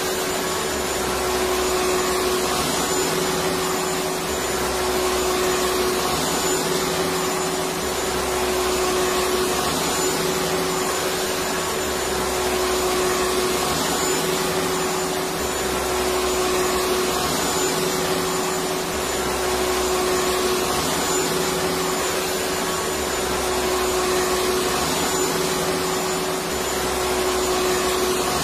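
Electric vacuum cleaner running steadily: a constant motor whine over a rushing noise, with a low hum that comes and goes every two seconds or so.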